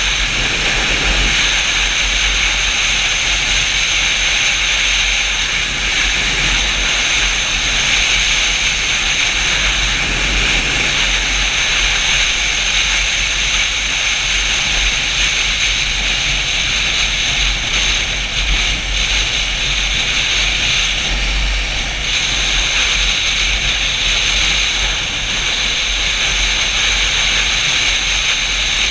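Steady wind noise on the microphone of a moving Yamaha FZ-07 motorcycle: a deep rumble with a hiss above it, unbroken throughout.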